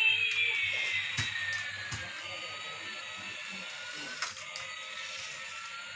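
Battery-powered toy airplane running, its electronic sound effect a whining tone that glides down over the first two seconds and then slowly climbs back up, with a few sharp clicks from the toy.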